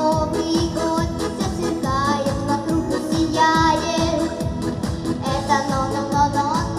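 A song: a voice singing a melody over backing music with a steady beat.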